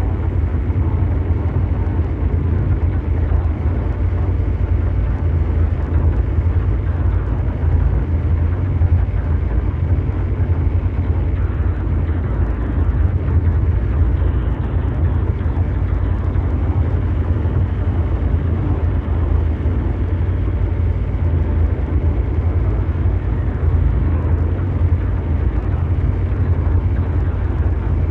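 Synthesized ambient mechanical drone in the manner of brown noise: a steady, deep rumbling hum with a softer hiss above it, unchanging throughout.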